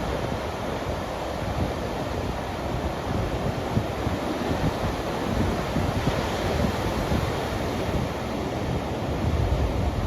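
Ocean surf washing ashore under strong storm wind, with gusts buffeting the microphone.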